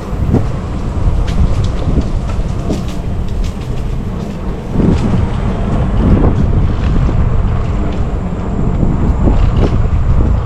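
Mountain bike being ridden along a dirt trail: wind buffeting the camera microphone over a steady rumble of tyres, with frequent clicks and knocks as the bike rattles over the rough ground.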